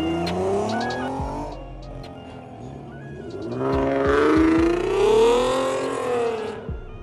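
A car engine revving, its pitch rising and falling at the start and again, louder, from about the middle of the clip to near the end, with background music underneath.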